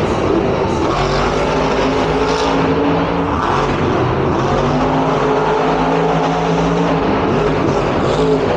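Monster truck's supercharged V8 engine held at high revs, a steady tone for about two seconds, dropping away around three seconds in and held high again from about four and a half seconds to seven.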